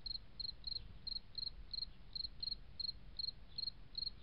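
Cricket chirping steadily, short high chirps about three a second, over a faint low hum.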